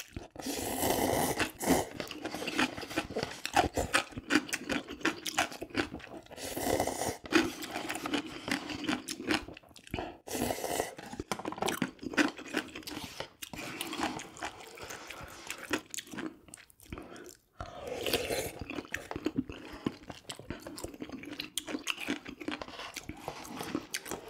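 Close-miked eating of spicy ramyun with cheese kimbap and kimchi: steady chewing and crunching bites, with four louder stretches of about a second each.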